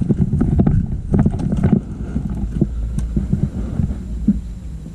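Low rumble of wind and handling on a body-worn camera's microphone, with many short knocks and clicks over it, busiest in the first two seconds and thinning out after.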